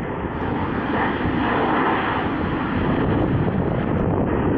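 Airliner engine noise from an airplane at the airport: a steady rushing drone that swells a little about a second in.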